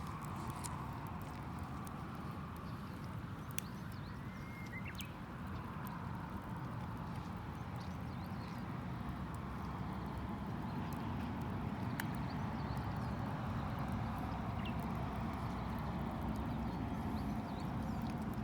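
Wood campfire burning with a steady low rumble, popping and crackling in scattered sharp clicks. A bird chirps once about four seconds in.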